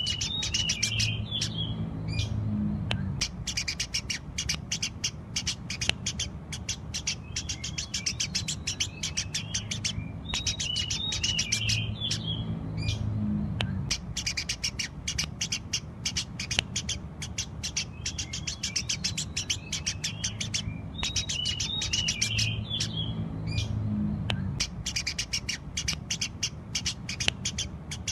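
Eurasian tree sparrow chirping continuously in a dense, rapid run of short sharp chirps, with a similar stretch of calls recurring about every eleven seconds over a low steady hum.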